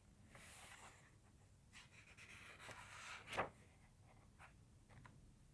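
Faint rustling of paper, as of book pages being handled, with a sharp click about three and a half seconds in.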